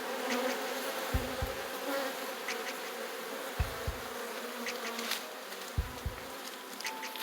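A colony of honey bees buzzing as a steady, dense hum around a box they have just been hived into. A few short low thumps come through about a second in, midway, and near the end.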